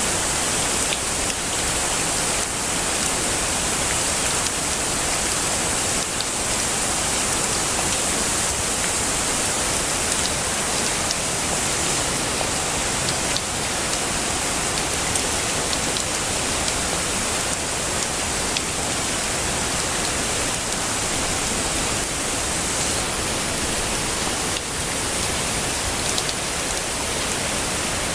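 Heavy rain falling steadily: a dense, even hiss with faint scattered ticks of individual drops.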